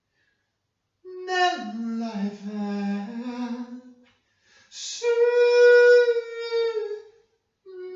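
A single voice singing or humming slowly without words: a phrase that slides down in pitch, a quick breath, then one long held higher note, with another note just starting near the end.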